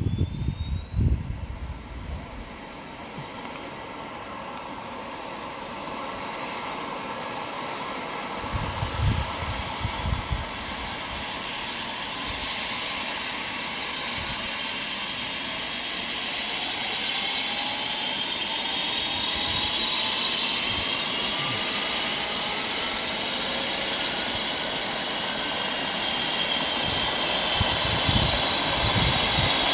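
Medical helicopter's turbine engine starting up: a high whine climbs in pitch over the first several seconds, then holds and grows gradually louder as it spools toward take-off power. A few low thuds are heard about nine seconds in and again near the end.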